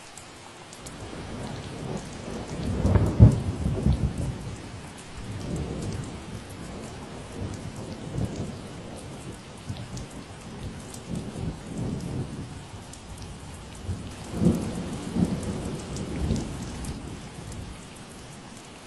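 Steady rain falling, with thunder rumbling low beneath it: a long roll that swells about three seconds in and again around fifteen seconds, then dies away near the end.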